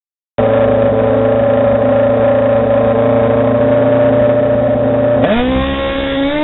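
A drag-racing sport bike's engine is held loud at steady high revs on the start line. About five seconds in it launches, and the pitch climbs fast as it accelerates away.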